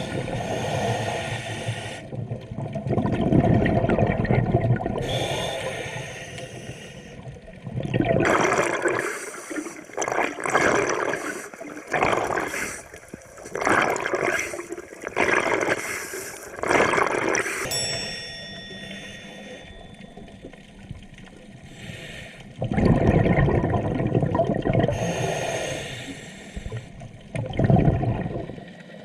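Scuba diver breathing through a regulator underwater: several long rushing bursts of exhaled bubbles. In the middle comes a run of shorter bubbling pulses, about one a second.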